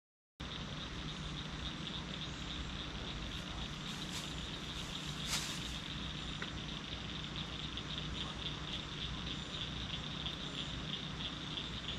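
Steady chorus of high-pitched, fast-pulsing insect calls over a low steady hum.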